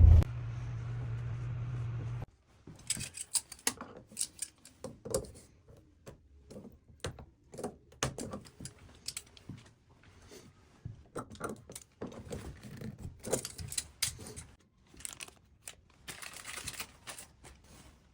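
A steady low vehicle hum that cuts off about two seconds in, then irregular clicks, clinks and rustling of small objects being handled in a small room.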